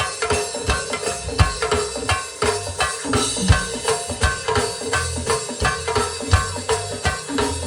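Live band playing an instrumental groove, with drum kit and percussion keeping a steady beat under sustained instrument parts.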